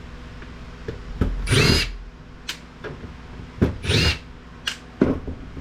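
Power drill-driver spinning in two short bursts, its motor whine rising in pitch, to back out screws while taking apart IT equipment, with small clicks and knocks of parts and screws between the bursts.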